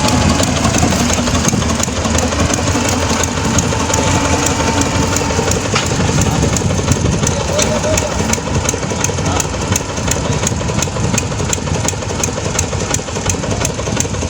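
A diesel engine running steadily. From about halfway through, regular ticks come about three times a second.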